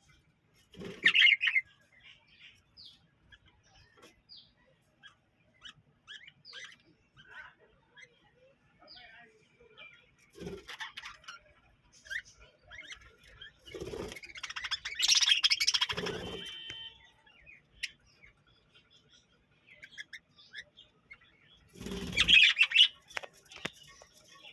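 A flock of budgerigars chirping and chattering in many short, scattered calls, with a few louder flurries of wing flapping, about a second in, around the middle, and near the end.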